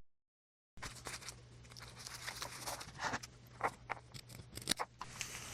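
Washi tape and paper being handled on a journal page: a scattering of small crinkles, clicks and rustles as the tape is pulled, torn and pressed down. It starts after a brief dead-silent cut, with a few sharper clicks around the middle.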